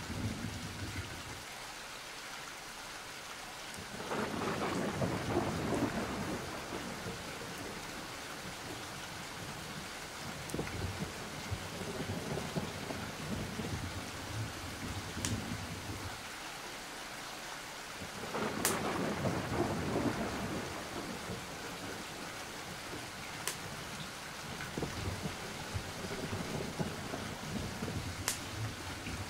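Steady rain with two rolls of thunder, one about four seconds in and one about eighteen seconds in, and a few sharp ticks scattered through.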